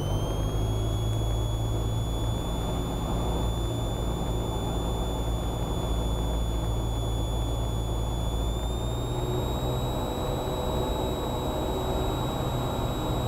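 Cessna 172R's four-cylinder Lycoming engine and propeller droning steadily on final approach, heard from inside the cockpit. A thin high whine runs over it and steps up a little in pitch about eight seconds in.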